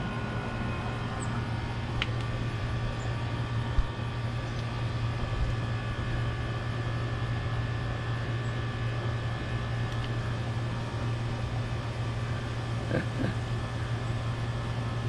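Steady machine hum with a low drone and a few faint higher tones, broken by a few small clicks.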